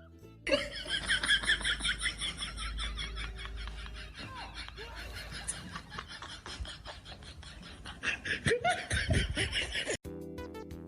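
People laughing in quick, high-pitched bursts, in two stretches. Music cuts in just before the end.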